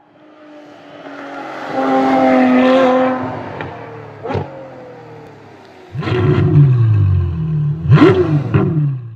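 Car engine revving as a logo-intro sound effect. A sustained pitched sound swells up about two seconds in, then a sharp hit. From about six seconds the engine blips and revs, each rev falling away, with a sharp rev peak near the end.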